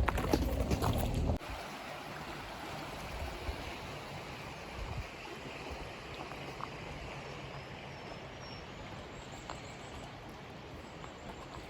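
A louder jumble of clicks and knocks that cuts off suddenly about a second and a half in, followed by a steady rush of flowing water with a few faint ticks.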